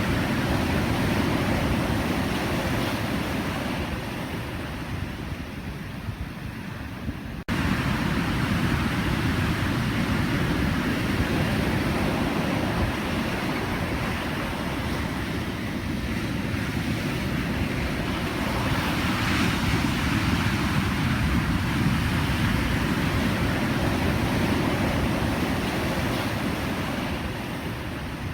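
Pacific Ocean surf: a steady wash of breaking waves that swells and eases, with a sudden dip and jump in level about seven seconds in.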